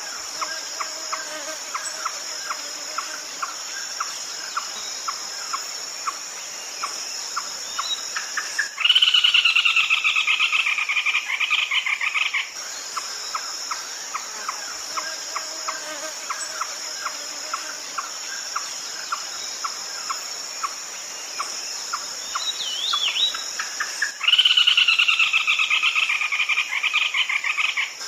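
Red-legged crake calls from a lure recording: a steady run of short repeated notes, broken twice by a loud rapid rattling call about four seconds long that falls slightly in pitch, about nine seconds in and again near the end. A constant high insect drone, like crickets, runs underneath.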